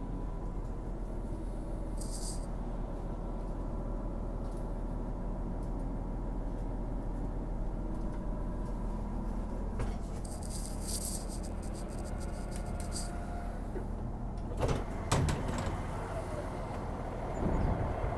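Class 642 Desiro diesel railcar running steadily, with short bursts of air hissing and a few sharp clunks a little before the end.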